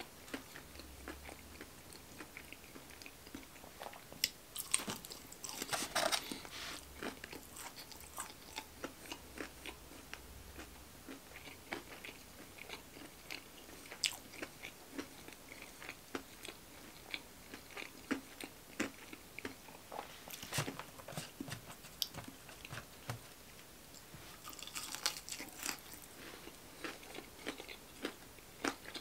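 A person chewing and biting fried chicken fingers close to the microphone: a steady run of small wet mouth clicks, with a denser burst of biting about five seconds in and another near the end.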